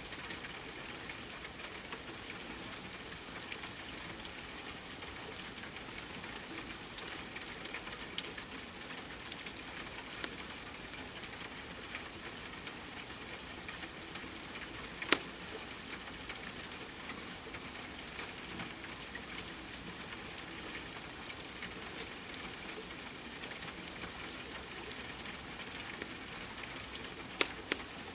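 Steady rain hiss with the sparse, sharp pops of a crackling log fire scattered through it, one loud pop about halfway through and two more near the end.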